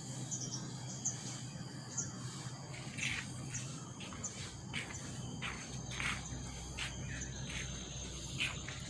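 Outdoor ambience: insects droning steadily with a string of short bird chirps and calls, over a faint low hum.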